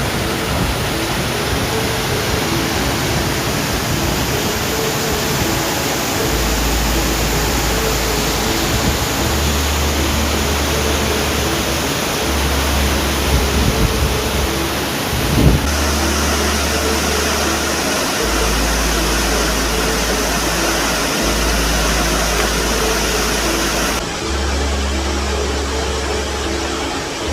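Steady rush of a waterfall, with background music joining about six seconds in as a slow bass line under it. The water noise changes abruptly at about 15 and 24 seconds in.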